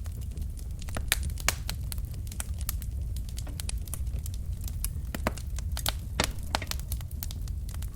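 Wood fire of burning logs in a fireplace, crackling with frequent irregular sharp pops over a steady low rumble of the flames.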